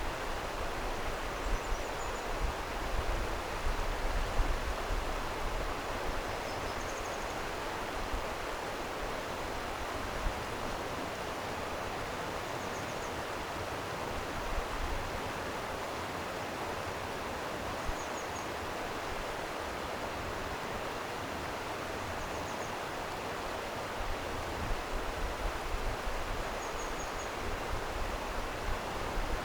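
Flowing stream water rushing steadily, with gusts of wind buffeting the microphone in the first few seconds and again near the end. Faint, short, high chirps come every few seconds.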